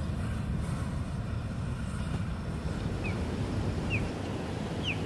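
Low, steady rumble of a freight train on the rails. From about three seconds in, a bird gives short falling chirps about once a second.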